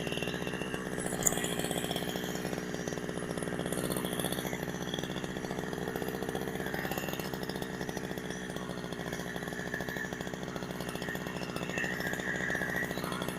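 Two-stroke Husqvarna 372XP clone chainsaw, fitted with a genuine carburettor, idling steadily.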